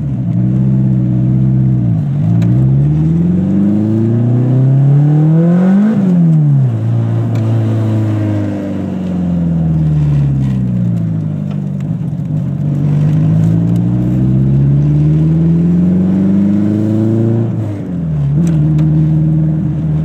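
Eagle Talon TSI's big-turbo 4G63 four-cylinder engine pulling hard at low boost: the revs climb for several seconds, fall back, then climb again and drop abruptly near the end.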